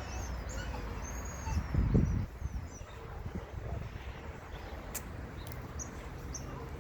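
Small birds chirping in the background. A brief low rumble comes about two seconds in and is the loudest sound, and a single sharp click comes about five seconds in.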